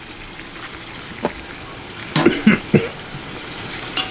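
Duck meat sizzling in a pot as duck blood is poured in. A sharp knock about a second in and a few louder knocks against the pot a second later cut through the steady sizzle.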